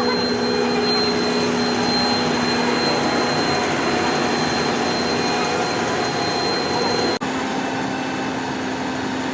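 JCB Fastrac 4220 tractor running steadily with a low hum and a high whine; the whine stops at a sudden break about seven seconds in.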